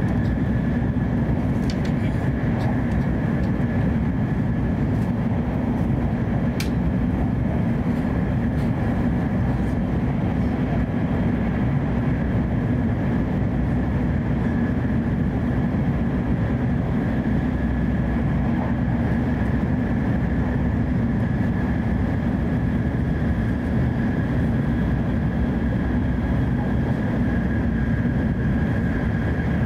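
Cabin noise inside a Hokuriku Shinkansen train running at speed: a steady low rumble with a faint steady whine, and a few light clicks in the first several seconds.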